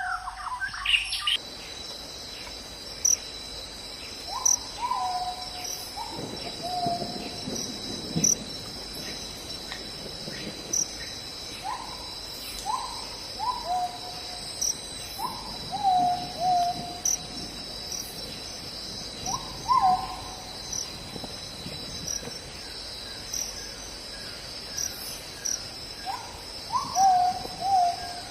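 Short hooting calls every few seconds, each jumping up then dropping in pitch, over a steady high chorus of night insects.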